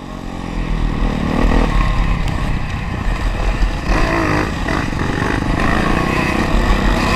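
Honda CRF450R's single-cylinder four-stroke motocross engine being ridden hard on the throttle, its revs rising and falling repeatedly as the rider accelerates and backs off. It starts quieter and builds over the first second.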